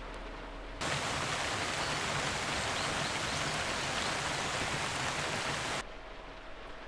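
Heavy typhoon rain in a loud rush that starts suddenly about a second in and cuts off suddenly about five seconds later. Before and after it, fainter steady rain with a faint steady hum.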